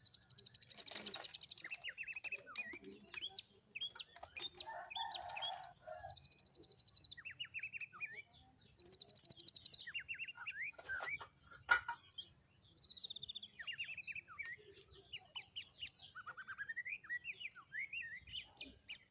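Small songbirds chirping and calling, with quick falling notes and three short buzzy trills spread through, and a couple of sharp clicks about eleven to twelve seconds in.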